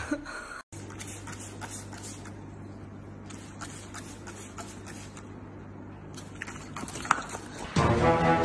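Trigger spray bottle squirting mist onto a potted palm's fronds: short hissing sprays over a faint steady hum. Music starts near the end.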